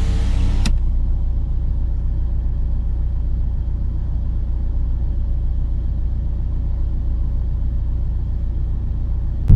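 Steady low rumble of road and engine noise inside a moving car's cabin. A whining electric window motor cuts off under a second in.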